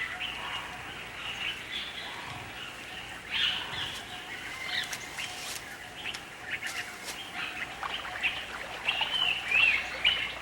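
Wild birds chirping and calling, many short overlapping calls over a faint steady hiss, with a louder burst of calls about three and a half seconds in and a run of warbling calls near the end.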